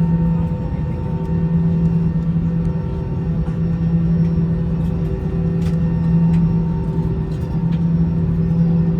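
Steady cabin drone of an Airbus A321 with its jet engines running on the ground: a low hum with a few fixed higher tones over rumble, as heard while taxiing. A few faint clicks or rattles sit on top.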